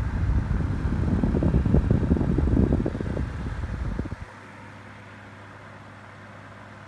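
Holmes Lil-Blizzard desk fan running on low, its oscillation off. For about the first four seconds a loud, rough rumble covers it, then stops suddenly, leaving the fan's steady low hum.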